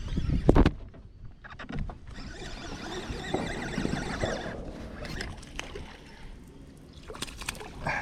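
Knocks against a kayak's hull, then a couple of seconds of splashing water, with scattered small clicks of gear handling.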